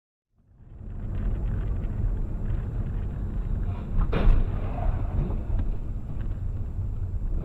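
Low, steady rumble of a car driving, road and engine noise picked up inside the car, starting suddenly about half a second in. A single sharp bang about four seconds in is the loudest moment.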